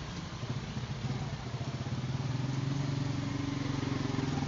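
A vehicle engine running steadily with an even hum, growing gradually louder.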